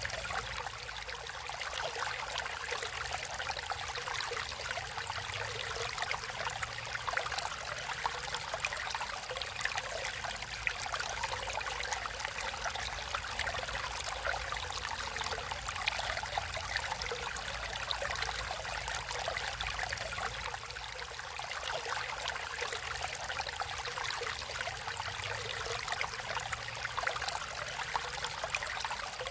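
A stream of water flowing and trickling steadily, with a fine patter of small splashes.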